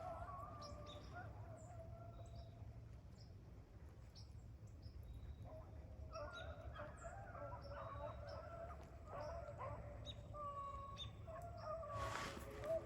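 A pack of rabbit hounds baying in the distance while running a rabbit: long, wavering cries, several voices overlapping from about halfway in. Short high chirps sound faintly over them.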